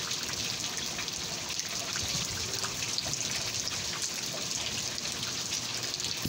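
Heavy rain falling in big drops: a steady splashing hiss of water with many individual drop hits.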